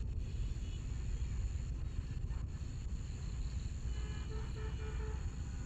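Outdoor field ambience: a steady low rumble, with a few faint short tonal calls about four seconds in.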